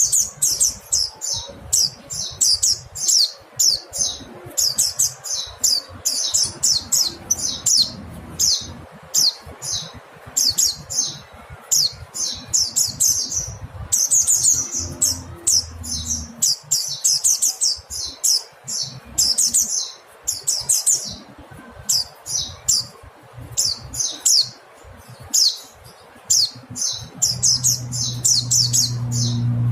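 Mountain white-eye (pleci gunung) giving rapid, high-pitched chattering calls: quick runs of notes repeating every second or so without a break. A low hum comes in near the end.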